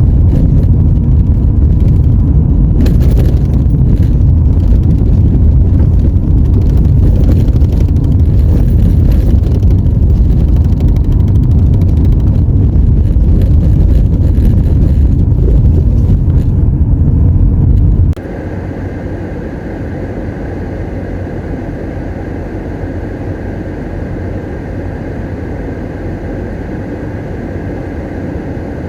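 Car driving, a loud steady low rumble of engine and road noise. About two-thirds of the way through it cuts abruptly to a quieter steady drone with a faint high whine.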